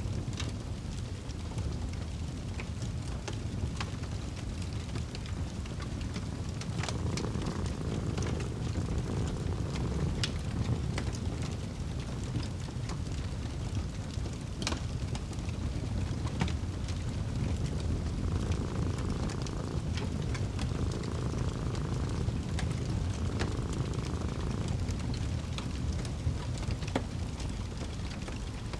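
Wood fire burning in a fireplace: a steady low rumble with sharp crackles and pops scattered irregularly throughout.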